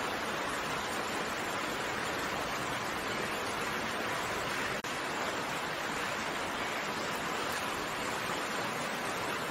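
Steady rain falling, an even hiss, with a momentary break in the sound about halfway through.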